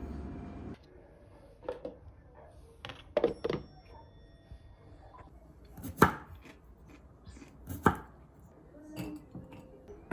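Scattered light knocks and clicks of objects being handled, with two sharp knocks about six and eight seconds in. A steady rumble cuts off within the first second.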